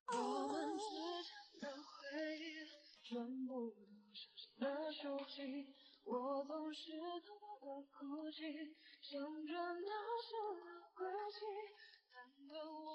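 Background song with a female lead vocal singing a slow, sustained melody with vibrato.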